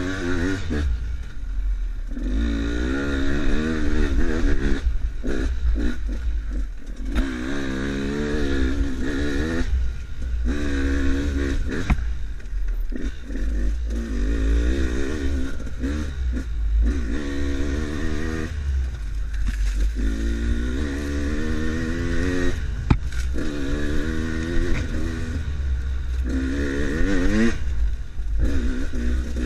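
Enduro motorcycle engine revving up and easing off again and again, with short drops between pulls, over a heavy low rumble of wind on the microphone and occasional clattering knocks.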